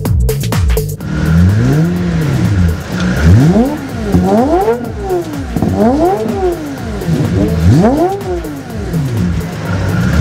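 Performance car engine revving hard again and again, its pitch climbing and falling about six times, with electronic music underneath.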